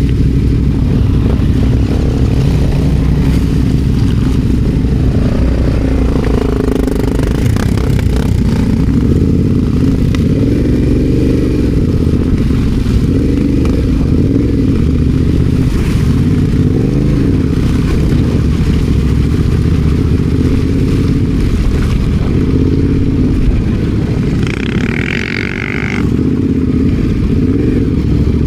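Adventure motorcycle engine running under way off road, its pitch rising and falling repeatedly as the throttle opens and closes. A short higher-pitched tone about 25 seconds in.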